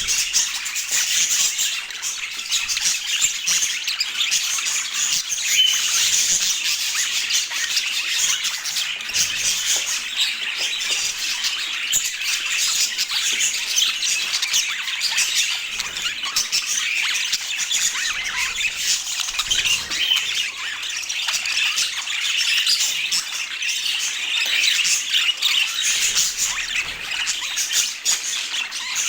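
Budgerigars chattering: a dense, unbroken stream of high chirps and warbling calls.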